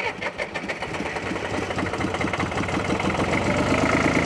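Porsche P133's 2.5-litre air-cooled three-cylinder diesel engine just after starting, running with its throttle pulled open. Its firing is uneven for the first moment, then settles into a steady, even run that grows slightly louder.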